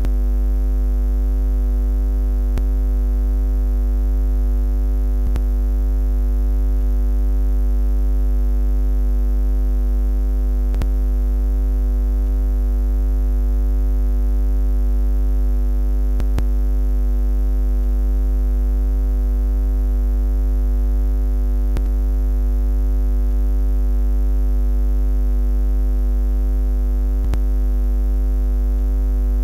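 Low buzzing drone, one steady unchanging pitch with a stack of overtones, held without a break.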